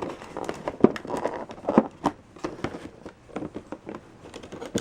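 Stiff plastic packaging crackling, with irregular clicks and taps, as a toy jet is handled and worked loose from its plastic tray.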